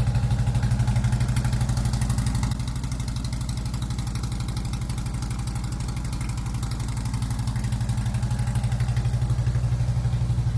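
Harley-Davidson Ultra Classic's V-twin engine idling with a steady pulse, freshly started after sitting for two months. The sound drops a step about two and a half seconds in, then runs on evenly.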